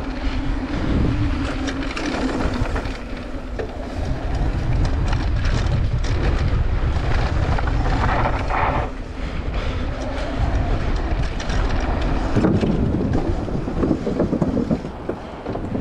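Mountain bike riding fast over a rough dirt trail: heavy rumble of tyres and wind on the microphone, with continuous clattering rattle from the bike over the bumps.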